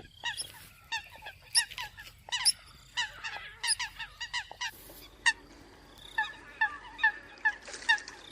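A flock of Eurasian coots calling: short, sharp, honking calls repeated a couple of times a second, several birds overlapping.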